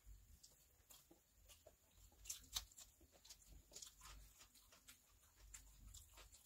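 Faint close-miked eating sounds: wet chewing, lip smacks and mouth clicks as a person eats biryani by hand, with fingers working rice on a steel plate. The clicks are irregular and loudest about two and a half seconds in.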